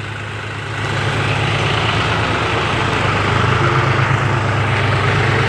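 Tractor engine running steadily with an even low throb, growing a little louder about a second in.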